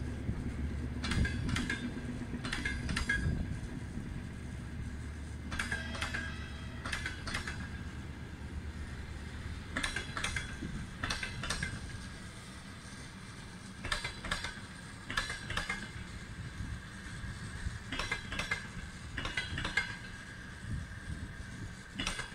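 Sleeper train's passenger coaches rolling past as it arrives, the wheels clacking over rail joints in close pairs every second or two, with a faint steady high tone beneath. A low rumble fades out over the first few seconds.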